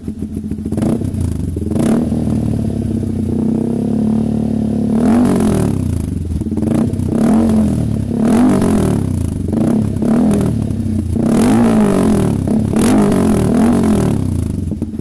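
Yamaha XSR155's single-cylinder engine through a custom 3-inch resonator and SC Project canister exhaust, idling and then revved hard in repeated quick blips. Each blip rises and falls in pitch before it settles back to idle near the end.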